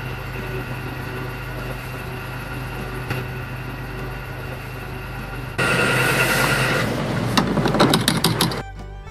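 A small motor running steadily with a constant hum. About five and a half seconds in it gets louder and rougher, with a fast rattle for the next few seconds, then drops away sharply near the end.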